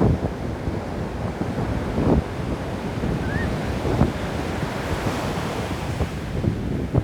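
Ocean surf breaking and washing up the shore in a steady rush, with wind buffeting the microphone in low rumbling gusts; a wave's wash swells into a brighter hiss about five seconds in.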